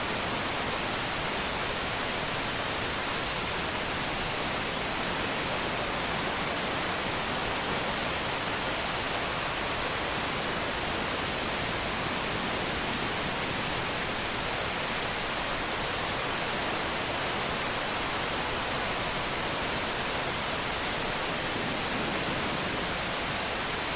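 Steady rushing of a waterfall: an even wash of falling water that does not change.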